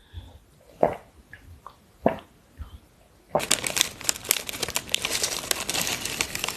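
Packaging crinkling and rustling, close to the microphone. It comes after a few soft, separate taps and starts suddenly about halfway through, as a dense crackle that keeps going.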